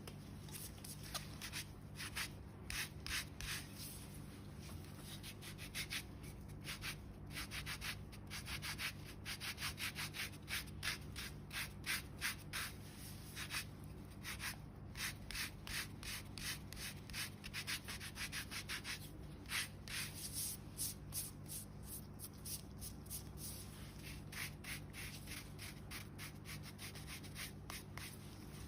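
Quick rubbing strokes over dead skin on a foot, in runs of several strokes a second with short pauses between them.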